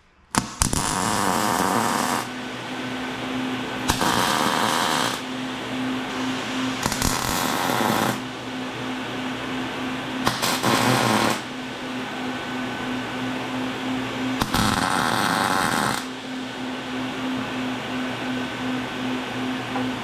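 Electric welder arc crackling and buzzing as steel seams are tacked and welded, in several runs of a second or two that stand out from a steady humming noise.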